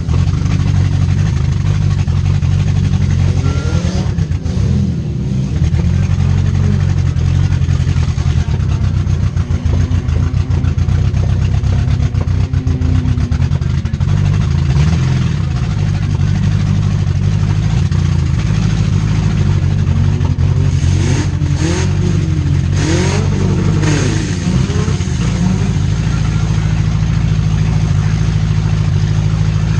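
Demolition derby cars' four-cylinder engines running loudly, revving up and down around four seconds in and again about 21 to 24 seconds in.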